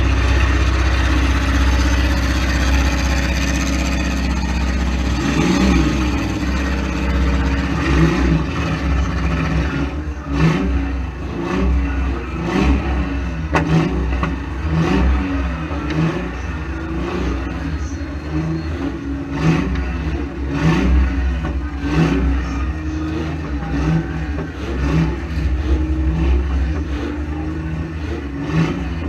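Demolition derby cars' engines running and revving over and over, the pitch rising and falling about once a second, with sharp knocks and clatter scattered through.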